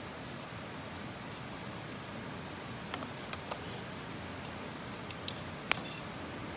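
A campfire burning: a steady hiss with a few light pops a little before halfway, and one sharp crack near the end.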